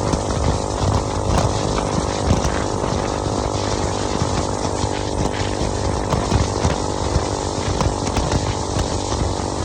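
Motorcycle engine running at a steady speed while riding, with heavy wind rumble on the microphone.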